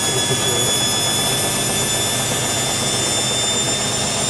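Hoover WDYNS654D washer dryer running steadily: an even rushing noise with several high, steady whining tones that does not change.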